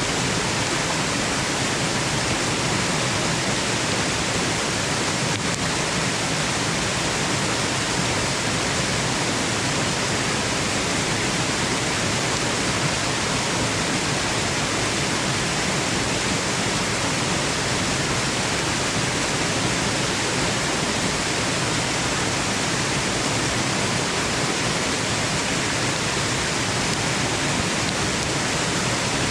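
Waterfall: a steady, even rush of falling water with no changes or distinct events.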